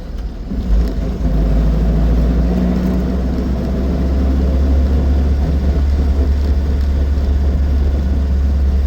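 Austin 7 Ruby being driven: its small side-valve four-cylinder engine running under way with a heavy low rumble and road noise, picking up in level about a second in and then holding steady.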